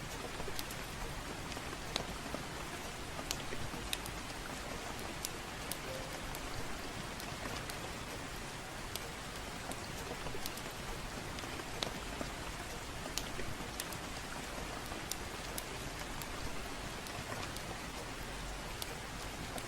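Steady gentle rain, with irregular sharp crackles and pops from a wood fire in a fireplace scattered over it.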